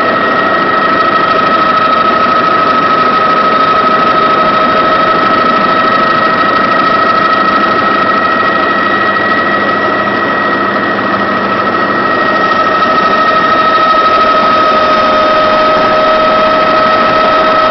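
Helicopter in flight: a steady engine and rotor noise with a constant high whine running through it.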